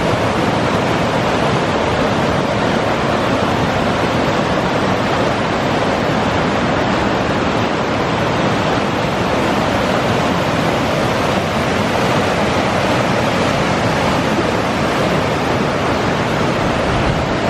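Bridal Veil Falls, a waterfall, rushing in a loud, steady roar with no let-up.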